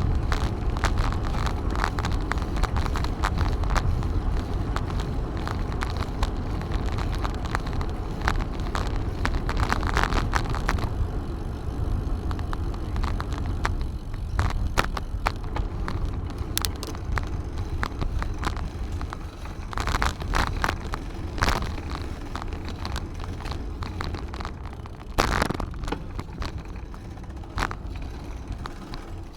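Riding noise from a bicycle on the move: a steady low rumble of wind on the microphone and tyres on the path, with many short clicks and rattles.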